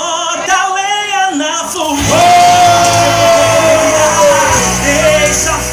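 A song with a singer over a band: a wavering vocal line with little bass, then the band's bass comes in about two seconds in under one long held sung note that sags slightly in pitch.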